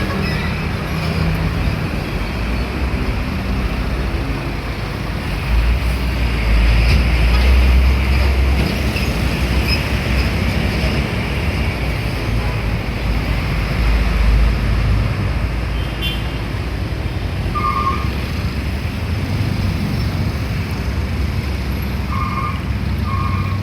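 Heavy road traffic with trucks and buses passing: a continuous rumble of diesel engines and tyres that swells as a heavy vehicle goes by about a quarter of the way in. Near the end come a few short beeps, one and then a quick pair.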